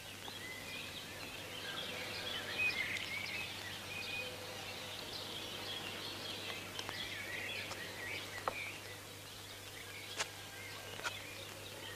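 Birds chirping faintly over a steady low hum, with a few sharp clicks in the last few seconds.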